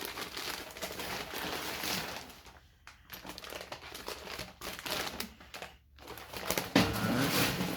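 Plastic packaging crinkling and rustling as a parcel is cut open and unwrapped by hand.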